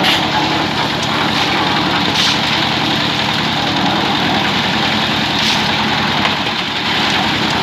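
Engine-driven concrete mixer running steadily, with a fast, even engine beat under a constant hiss, and a few brief louder hisses.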